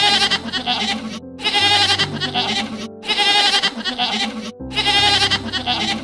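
An animal bleating: four long, wavering bleats, each about a second and a half, cut off sharply between them, over background music with steady low held notes.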